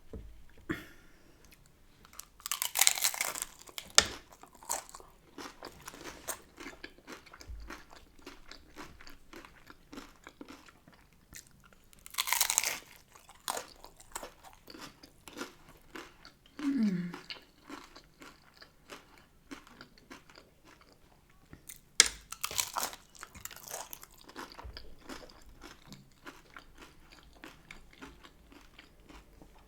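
Close-up eating sounds: three loud crunching bites into hard-shell tacos, about 3, 12 and 22 seconds in, with quieter crackly chewing between them.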